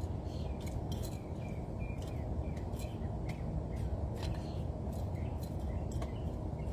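Small birds at a feeder: brief falling chirps and sharp irregular clicks, a few each second, over a steady low rumble.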